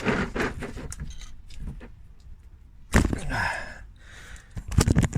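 A tyre plug insertion tool being turned in a punctured car tyre and pulled back out, leaving the rubber repair strip in the hole. Scraping and rubbing, with a sharp knock and a short scrape about three seconds in and more knocks near the end.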